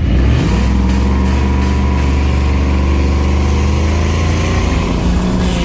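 Supercharged 6.2-litre LSA V8 engine of a pickup truck running at raised revs. The pitch steps up just after the start, falls back about two seconds in and rises again near the end, with a few sharp pops early on.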